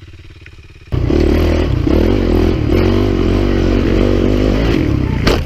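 Dirt bike engine: a quieter steady running for about the first second, then a sudden jump to a loud engine running at wavering revs, with a few sharp knocks near the end.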